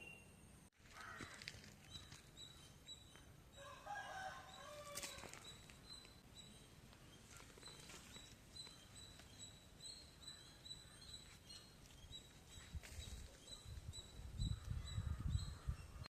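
Rural outdoor ambience: a rooster crows about four seconds in, over a high, thin bird note repeated about once or twice a second. A low rumble comes near the end.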